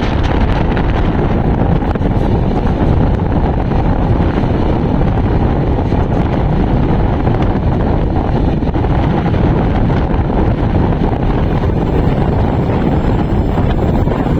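Passenger train running at steady speed, a continuous rumble of wheels on the rails with wind buffeting the microphone.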